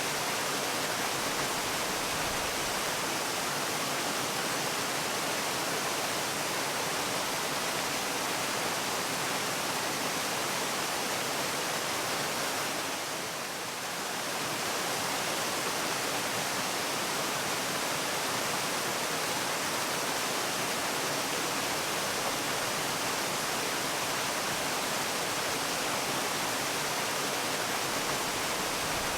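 Steady rush of falling water, like a waterfall, even and unbroken. The level dips briefly about halfway through, then returns.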